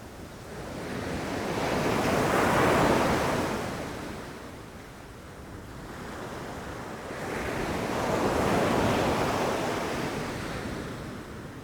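Ocean waves breaking on a beach, two waves in turn, each swelling to a rushing crash and fading back to a low wash.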